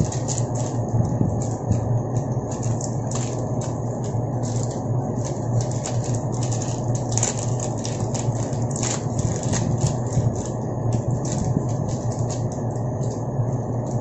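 A steady low hum with many irregular sharp clicks and crackles over it.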